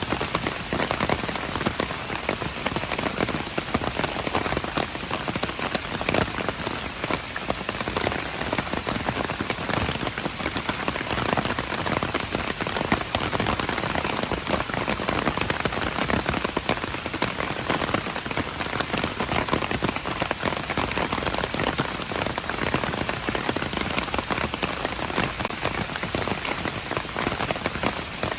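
Steady rain falling on hard surfaces, a dense even patter of many individual drops with no let-up.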